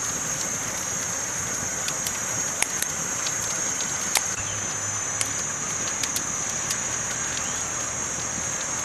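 Campfire burning with a steady hiss and sharp crackling pops at irregular moments, the loudest pop about four seconds in.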